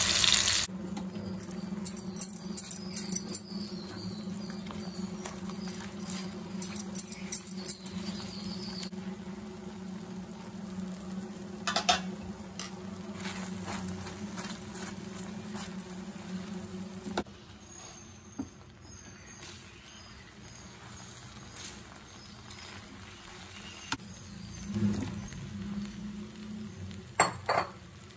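Masala paste frying in hot oil in a nonstick pan, with a soft sizzle and spattering. A silicone spatula stirs and scrapes it, making repeated sharp clicks and taps. A steady low hum sits underneath for about the first two-thirds.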